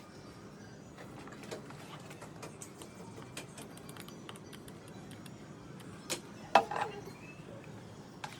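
Scattered light clicks and taps of small parts being handled, with two sharper knocks about six seconds in, the second the loudest.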